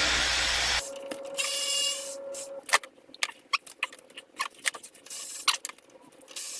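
A loud, steady rushing noise with a low hum cuts off suddenly about a second in. Scattered light clicks and taps follow, the sound of hand tools and small metal parts being handled on a small engine being taken apart.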